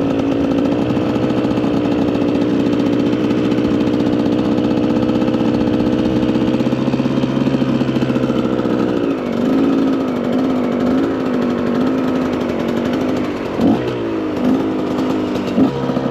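KTM EXC 125 two-stroke single-cylinder dirt bike engine running at a steady pitch for about nine seconds, then the revs rise and fall unevenly, with a few quick throttle blips near the end.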